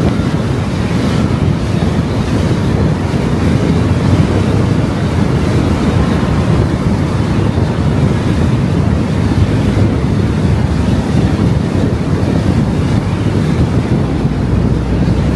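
Steady road and wind noise of a car driving, a dense rumble strongest in the low range, with no change in speed or events.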